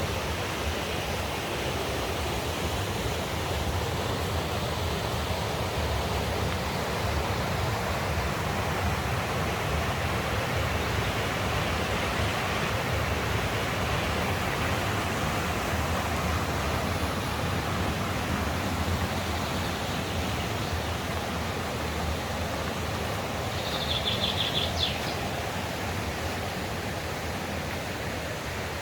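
Mountain stream rushing steadily, with a brief high chirp about three-quarters of the way through.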